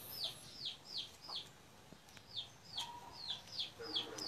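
A bird peeping: a quick series of short, high, falling notes, about three a second, with a pause of about a second midway.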